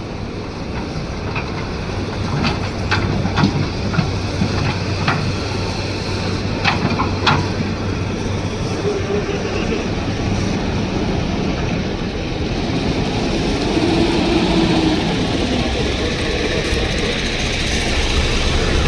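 Tata Hitachi 200 excavator working, its diesel engine running with a steady low hum. A string of sharp knocks comes between about two and seven seconds in.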